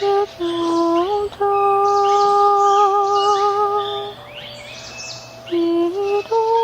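A woman's voice humming long, held wordless notes, the longest lasting about two and a half seconds with a slight waver, as Light Language vocal toning. Small birds chirp throughout, plainest in the pause after about four seconds.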